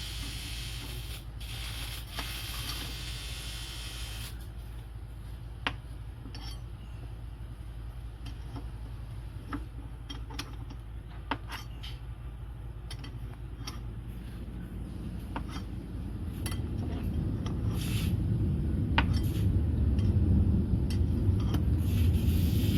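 Through-hull fitting being cranked tight into its sealant-bedded body with a stepped through-hull tool: a hissing noise at first, then scattered sharp clicks. A low rumble swells up over the last several seconds.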